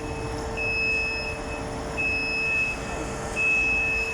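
Electronic warning beeper sounding in a regular on-off pattern, three long high beeps about a second and a half apart, over a steady machine hum.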